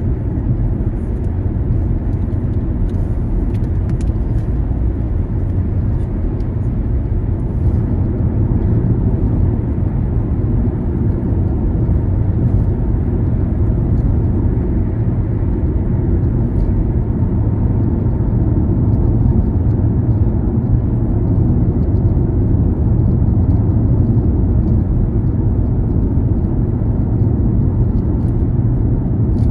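Steady low rumble of a car being driven: engine and tyre noise on the road, even in level throughout.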